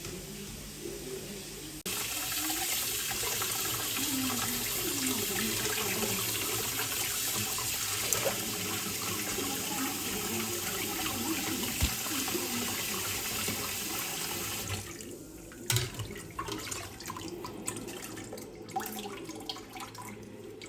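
Water running from a tap, turned on suddenly about two seconds in and shut off abruptly about fifteen seconds in, followed by light knocks and clinks.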